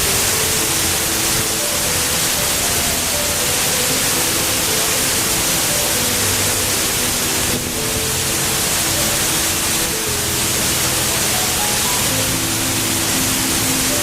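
Background music of slow, held notes stepping up and down over a steady, loud rush of falling water from a waterfall.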